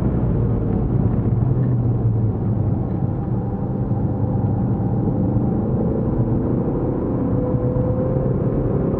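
Ford Focus ST Estate's engine heard from inside the cabin while lapping a race circuit. It holds a steady note for the first half, then its pitch slowly rises from about halfway as the car pulls through a corner, over a constant rumble of road and tyre noise.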